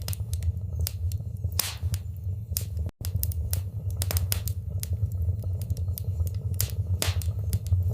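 Wood fire burning in a fireplace: a steady low rumble with irregular sharp crackles and pops. The sound cuts out for an instant about three seconds in.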